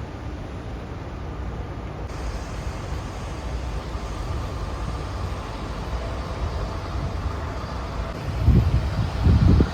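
Wind buffeting the microphone over a steady low rumble, with two strong gusts near the end.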